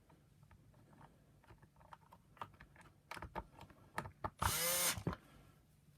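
Plastic parts of a vacuum power nozzle clicking and knocking as they are handled and fitted, then a brief whir of a small power tool, about half a second long, about four and a half seconds in.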